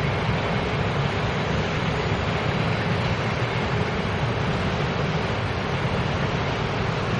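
Taiwan Railways passenger trains running along the tracks: a steady running noise, heaviest in the low range, with no horn or wheel squeal standing out.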